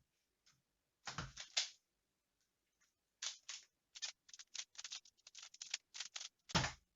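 Rubik's cube being turned fast during a timed speedsolve: quick bursts of clicking turns, dense over the second half, then a louder thump near the end.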